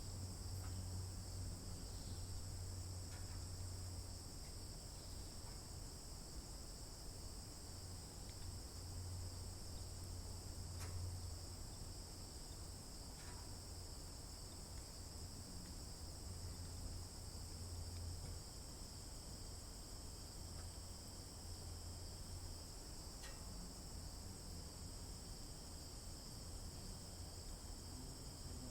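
Steady, high-pitched chorus of insects such as crickets, unbroken throughout, over a low steady hum, with a few faint ticks.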